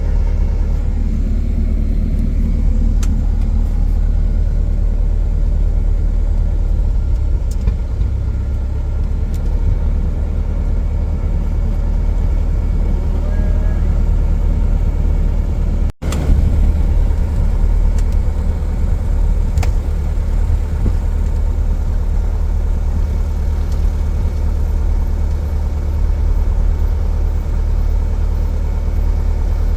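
Cessna 177 Cardinal's piston engine and propeller droning steadily in flight, briefly cut off about halfway through.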